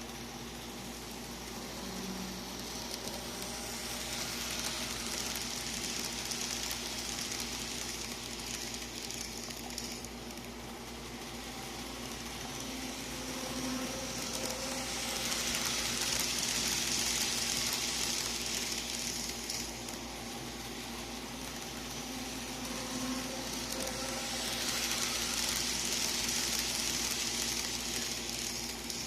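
Model train running on track, driven by a power pack converted to PWM control. Its rolling and motor noise swells three times as it comes near, over a steady faint hum.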